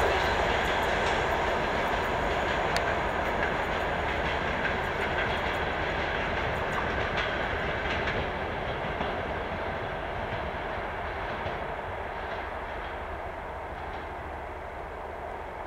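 Passenger train hauled by a TEP70BS diesel locomotive rolling away: a steady rumble of coach wheels on the rails with scattered clicks over the rail joints. It fades steadily as the train recedes, and the sharper clicks and hiss die out about halfway through.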